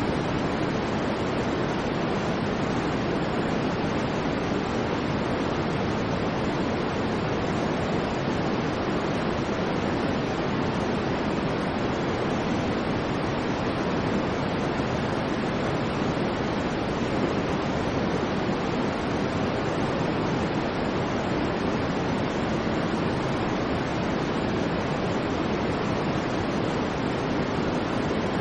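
Steady white noise: an even, unchanging hiss with no swells, breaks or pitch, fullest in the low-middle range.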